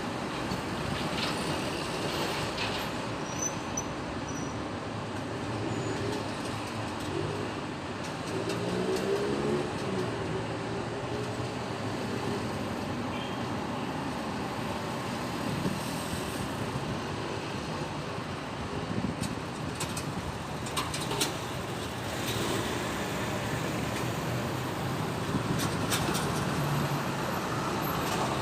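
Busy city road traffic: a steady din of vehicle engines and tyres, with one engine's pitch rising and falling briefly about a third of the way in.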